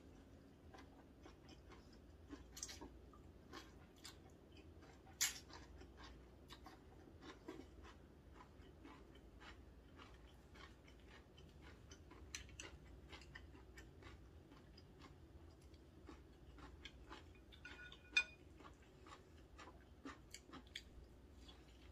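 Quiet, close-up eating sounds: soft chewing and small wet mouth clicks while eating noodles and seafood pancake, with a few sharper clicks of wooden chopsticks against the food and dishes, one of them with a brief ring late on.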